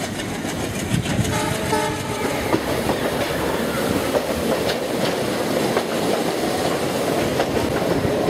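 Passenger train running along the track, heard from an open coach door: steady wheel-and-rail rumble with the click of rail joints. About a second in, a train horn sounds for roughly a second.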